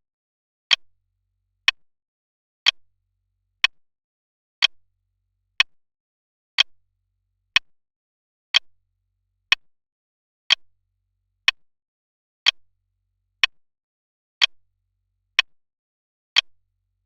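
Clock ticking steadily, one sharp tick about every second, each with a fainter click just after it.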